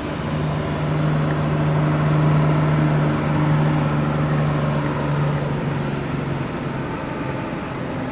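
Engine and road noise of a moving coach bus heard from inside the cabin, with a steady low hum that fades out about six and a half seconds in.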